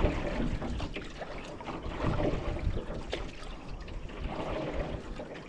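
Canoe paddle strokes in lake water, with water splashing and trickling off the blade.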